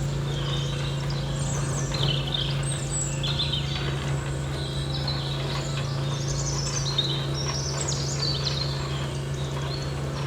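Birds chirping repeatedly in quick short calls over a steady low hum.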